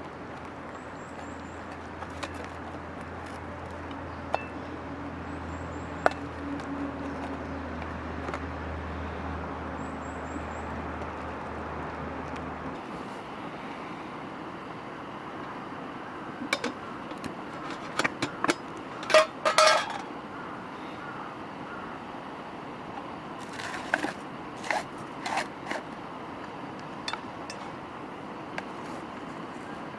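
Camp tableware, metal or glass, clinking and tapping in short clusters in the second half. Beneath it a low steady hum runs and then cuts off suddenly a little before halfway.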